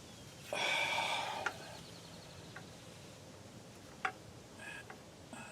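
Metal brake parts being handled: a brief ringing metallic rattle lasting about a second, then a few separate light clicks.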